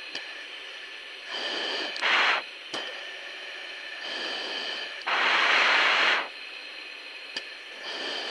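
Heavy breathing through an oxygen-mask microphone on the fighter jet's cockpit intercom, a breath every couple of seconds while the jet pulls G's, over a steady intercom hiss.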